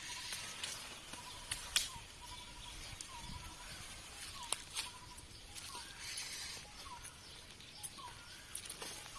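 Outdoor woodland ambience: a bird repeats a short call note about once a second over a steady faint hiss, with a few sharp clicks scattered through.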